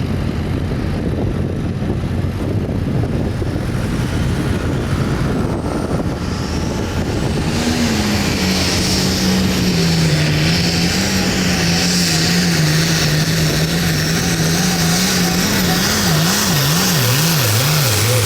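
Turbocharged diesel engine of a hot farm pulling tractor running hard during a sled pull. A dense low rumble gives way, about seven seconds in, to a loud steady engine note with a high hiss above it. Near the end the engine's pitch wavers rapidly up and down.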